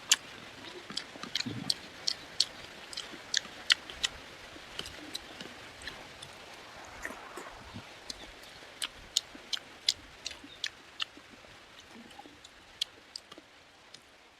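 Close-up eating sounds of a person chewing pork curry: a string of sharp, irregular mouth clicks and smacks, more frequent at first and thinning out toward the end.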